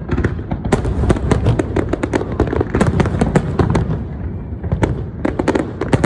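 Fireworks going off in a dense barrage: rapid sharp cracks and pops over a continuous low rumble of booms, thinning briefly past the middle before picking up again.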